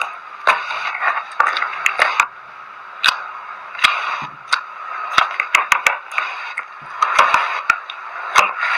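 Slime being squeezed and stretched by hand, with irregular sharp clicks and pops over a soft crackling hiss.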